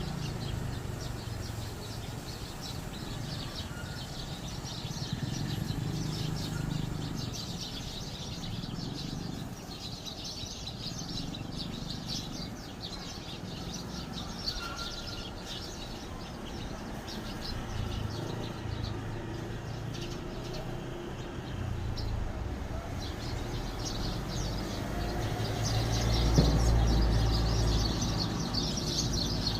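Eurasian tree sparrows chirping, many quick overlapping chirps that thin out for several seconds midway and pick up again. Underneath runs a low steady rumble that swells near the end.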